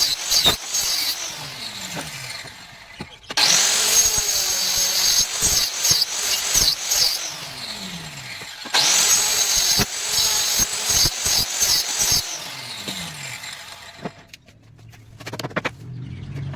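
A handheld electric power tool working wood in short runs. It starts abruptly twice, runs a few seconds each time with a high whine, and winds down with falling pitch after each release, with sharp knocks and clatter of wood between.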